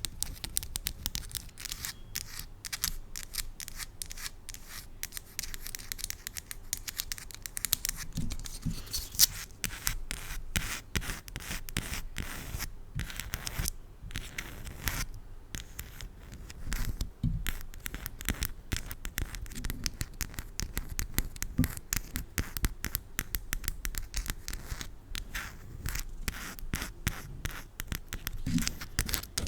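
Plastic spiral fidget toy being handled with long acrylic nails close to a microphone: a dense, continuous run of rapid clicks and scratches.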